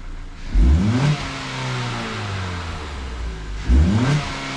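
2017 Ford Fusion's 2.5-litre four-cylinder engine revved twice, each rev climbing quickly in pitch and settling back toward idle.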